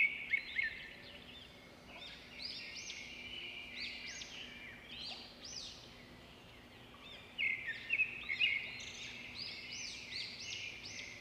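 Songbirds chirping and singing, a dense run of quick, high, arching notes, loudest at the start and again about seven to eight seconds in.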